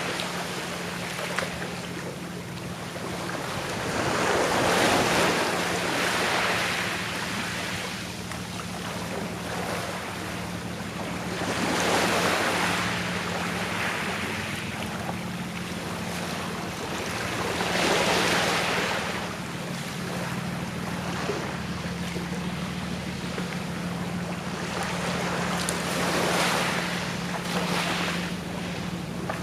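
Calm sea waves washing onto a shore, the wash swelling and fading roughly every six seconds, with a steady low hum underneath.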